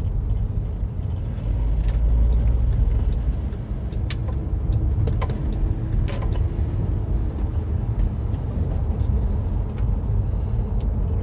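Volkswagen Caddy van being driven, heard from inside the cabin: a steady low rumble of engine and road noise, with a few short clicks or rattles.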